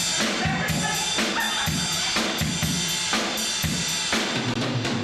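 Live drum kit played in a quick steady beat: kick drum and snare strikes under continuous cymbal wash, breaking off at the end.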